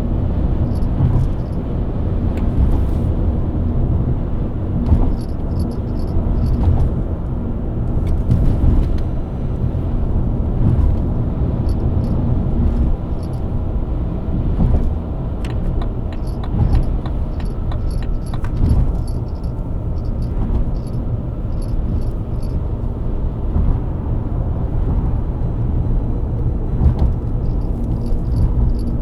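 BMW E90 323i's inline-six engine running steadily at cruise, under a continuous low rumble of road and tyre noise, with faint clicks and small rattles now and then.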